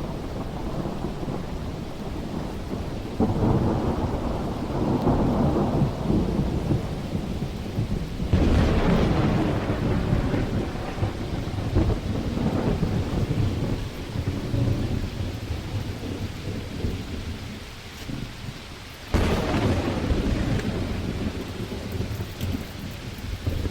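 Heavy rain falling steadily while thunder rolls. Three claps break in, a few seconds in, about a third of the way through and again near the end, each rumbling on for several seconds.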